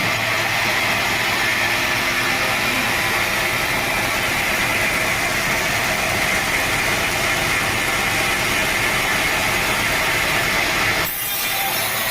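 Sawmill saw cutting steadily through a teak log, a continuous high-pitched rasping whine of blade through wood. The sound dips abruptly about eleven seconds in, then carries on.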